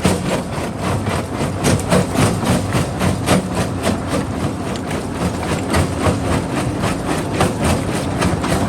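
Jaw rock crusher running under a steady heavy machine drone, with rocks knocking and cracking irregularly several times a second as they are broken between the jaws.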